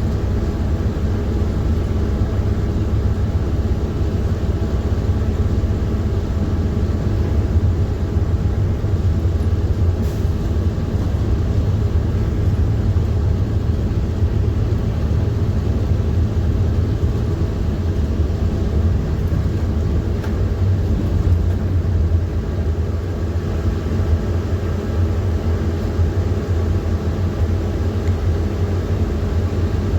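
A PAZ-4234 bus in motion, heard from on board: the engine and the road noise make a steady low rumble that keeps an even level throughout.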